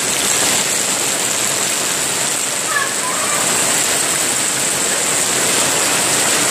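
Steady rain falling on a wet paved street: a constant, even hiss.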